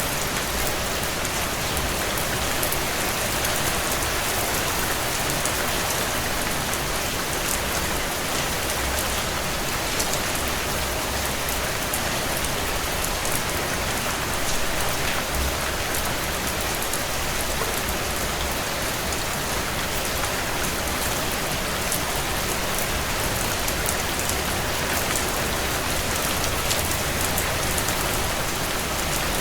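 Steady heavy rain on window glass, an even hiss, with a few faint crackles from a wood fire scattered through it.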